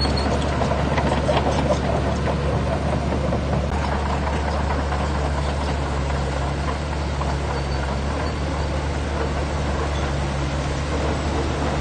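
Heavy diesel engine of earthmoving machinery running steadily, a low drone that holds the same note throughout.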